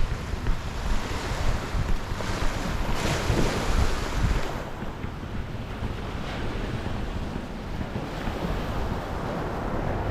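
Waves washing onto a beach, one wash louder about three seconds in, with wind buffeting the microphone.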